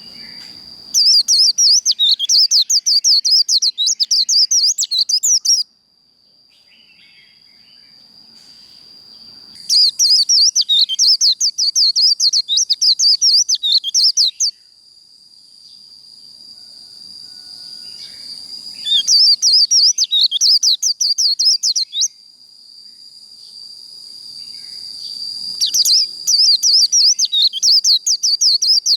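White-eye singing its rapid chattering 'líu' song in four bursts of quick high twittering, each lasting three to five seconds with pauses between. A steady high insect trill runs underneath.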